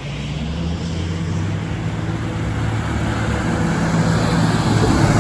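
Road traffic on an expressway: a steady low engine hum over tyre noise, growing gradually louder.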